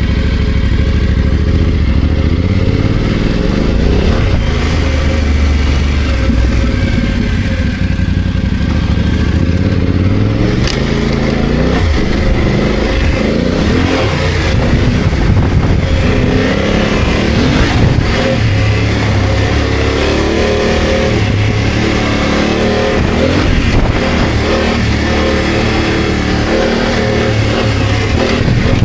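BMW F900GS parallel-twin engine under way, its pitch climbing and dropping over and over as the throttle opens and closes and the gears change.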